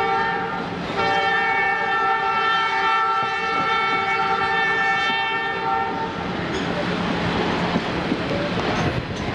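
Locomotive air horn blowing a multi-note chord, the end of one blast and then a long blast of about five seconds that stops about six seconds in. After it, the excursion train rolls on with a steady rumble and the clatter of wheels on the rails.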